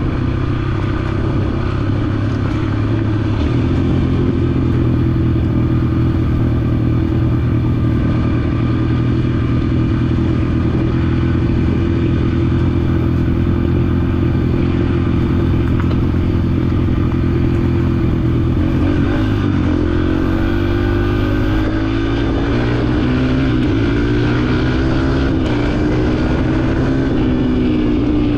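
Yamaha dirt bike engine running under way at steady revs. A little past halfway the revs drop briefly, then climb over a few seconds and settle again.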